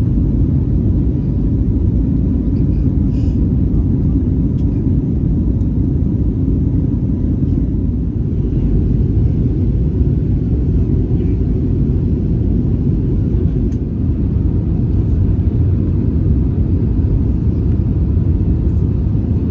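Steady, loud low rumble of a jet airliner's cabin noise in flight.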